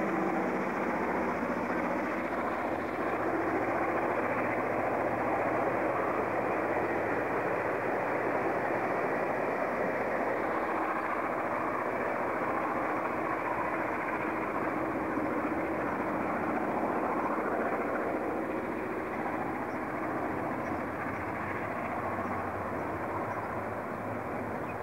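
A diesel-electric locomotive-hauled train passing close by: the locomotive's engine hum at first, then a steady rumble of the carriages rolling along the rails. The rumble eases slightly near the end.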